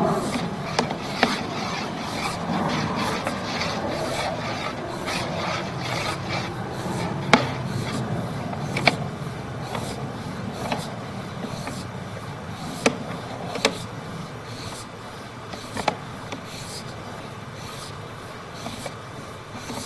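Sewer inspection camera's push cable rubbing and scraping as it is fed along a drain line, with scattered sharp clicks. The rubbing slowly fades.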